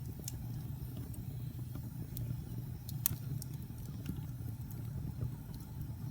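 Wood fire burning in a fireplace: a steady low rumble with scattered sharp crackles and pops, the loudest pop about three seconds in.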